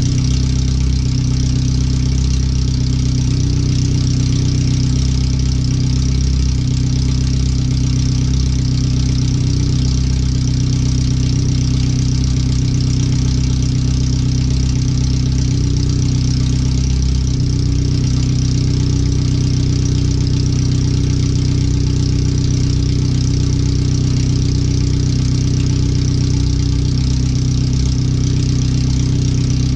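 Car engine idling steadily through a bare header with no exhaust behind it, very loud and open. It is the first run after the header swap, with the engine computer reading the idle mixture 5–7% too rich.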